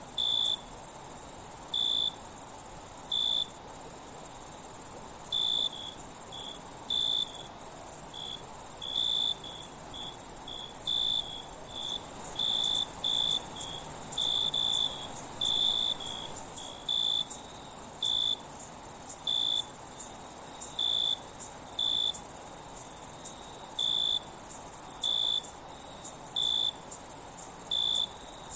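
Night insect chorus: a steady high-pitched trill, with crickets chirping in short pulses of one pitch, about one or two a second at an uneven pace. The sound drops out for an instant a few times.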